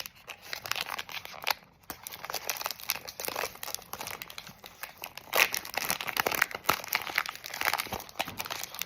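Plastic wrapper of a plant-based Reese's peanut butter cups pack crinkling as it is worked open: rapid, irregular crackles, loudest about five seconds in.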